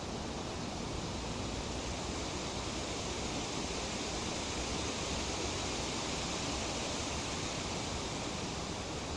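Wind rustling through tree leaves: a steady, even hiss that swells slightly in the middle.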